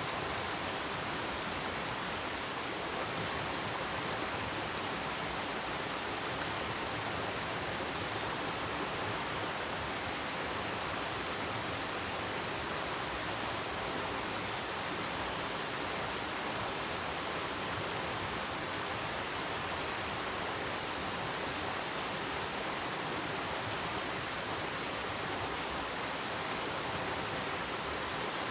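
Stream water rushing steadily, an even hiss of flowing water.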